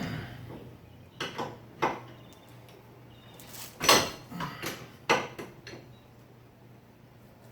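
Metal hand tools clinking and knocking: a string of irregular sharp clinks, the loudest about four seconds in, over a faint steady hum.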